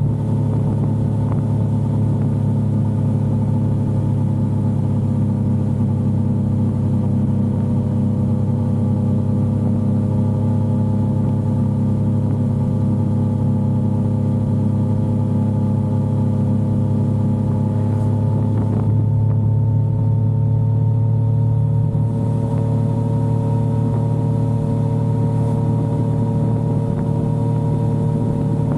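Yamaha XSR900 inline-three engine running while riding, heard from on the motorcycle. Its note sinks slowly, then climbs again about two-thirds of the way in as the rider gets back on the throttle.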